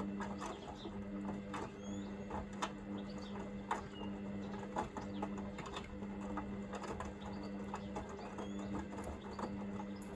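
Hoover VisionDynamic washing machine tumbling a small load in its wash-and-heat phase. The drum motor hums steadily, with frequent short knocks of the clothes and drum.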